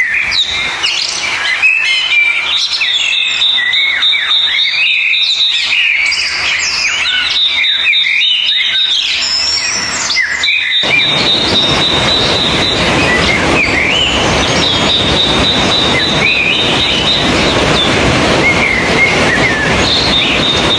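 Wild birds singing and chirping in quick, varied whistles over a steady high-pitched insect drone. About halfway through, a steady rushing noise comes in abruptly and continues under the birdsong.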